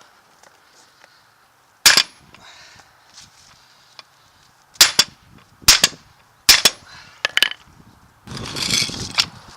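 Hammer blows on steel, striking a truck driveshaft's U-joint yoke to drive out a stuck needle-bearing cap: five sharp, ringing strikes spaced about a second apart, followed near the end by a harsher noisy burst lasting about a second.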